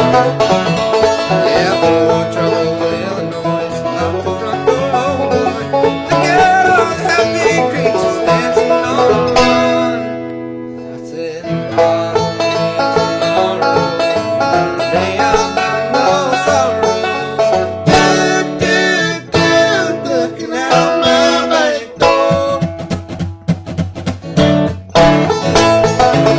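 Banjo and guitar picking a bluegrass tune together. The music dips briefly about ten seconds in, then carries on.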